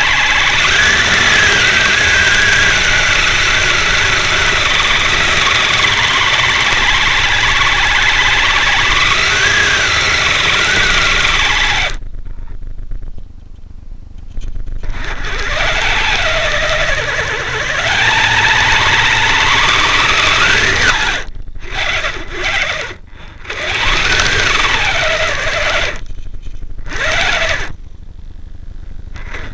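Brushed electric motor and gear drive of a Kyosho Blizzard SR radio-controlled snowcat whining, its pitch rising and falling with the throttle. It cuts out several times, longest for about three seconds near the middle.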